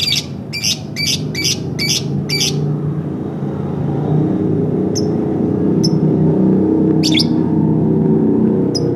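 Lovebird chirping: a quick run of about six sharp chirps, then single chirps about a second apart. Underneath runs a steady low rumble that grows louder.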